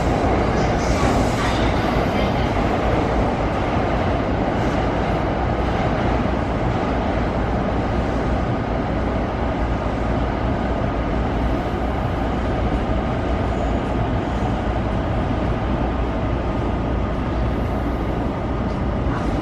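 E235-0 series electric train with a Mitsubishi full-SiC VVVF inverter running between stations, heard from inside the car: a steady rumble of wheels and running gear on the rails, with a faint steady high tone over it.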